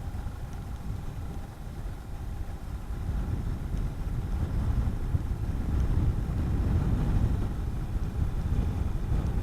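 Honda CB400SS air-cooled single-cylinder engine running while riding, with wind rushing over the helmet microphone, getting louder from about three seconds in as the bike picks up speed.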